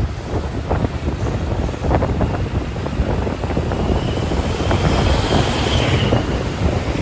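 Motorbike riding over a rough road: wind rushing over the microphone and a low rumble, with scattered knocks. A faint high tone rises and falls about two thirds of the way through.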